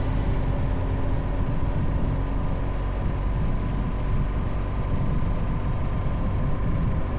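Riding sound from a BMW R 1200 GS motorcycle's boxer-twin engine, running steadily at speed under heavy wind rush on the camera microphone.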